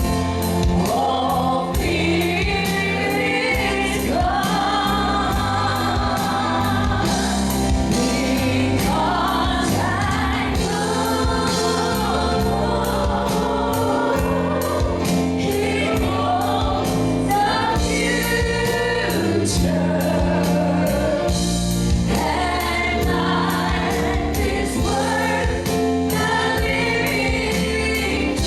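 Gospel choir singing with band accompaniment, over a steady beat.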